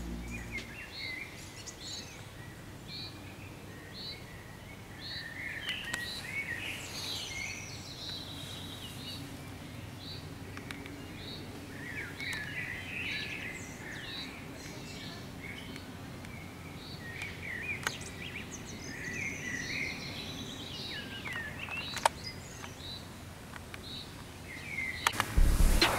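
Several songbirds singing. One repeats a short high note about once a second for the first few seconds, while others sing longer, more varied phrases throughout.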